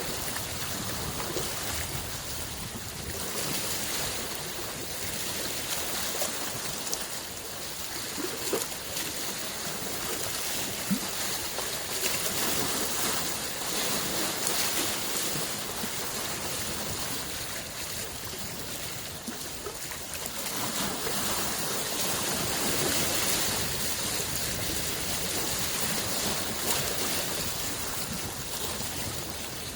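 Small lake waves lapping and washing onto the shore in gentle swells every few seconds, with light splashes.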